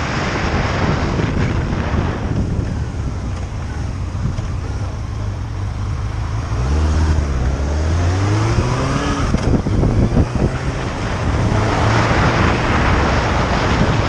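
Wind rushing over the microphone while a motorcycle rides, with the engine note climbing in pitch in steps as it accelerates about seven seconds in, then fading back under the wind after a few knocks.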